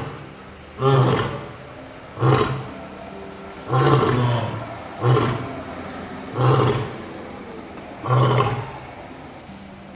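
A big cat's deep roaring grunts, six short calls in a row about one and a half seconds apart, each trailing off quickly.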